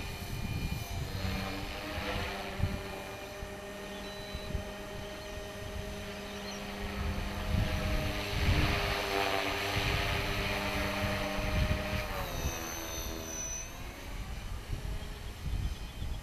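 Hobby King 450 Pro electric RC helicopter in flight: steady whine of its motor and rotors, with wind buffeting the microphone. The whine swells in the middle, and its pitch dips about twelve seconds in.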